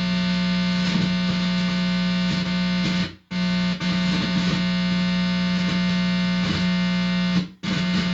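Guitar amplifier buzzing loudly as the bare tip of a guitar cable is held to a person's forehead: a steady hum with many overtones. It cuts out sharply twice, about three seconds in and near the end, then comes straight back. The owner takes the buzz for a directed-energy 'beam'.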